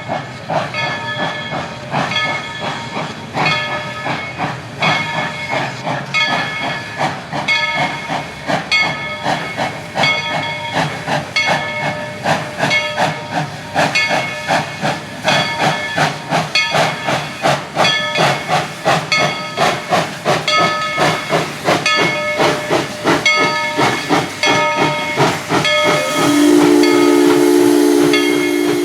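Steam locomotive working, its exhaust chuffs coming steadily and gradually quickening, with a bell ringing along with them. Near the end the steam whistle starts a long, held chord.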